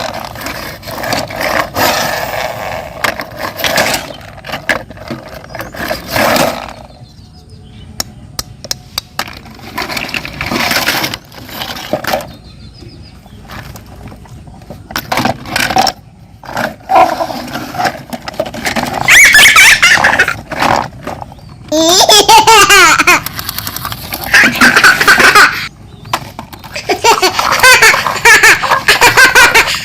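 High-pitched laughter in repeated bursts, loudest and most frequent in the second half, with quieter stretches and a few light clicks between.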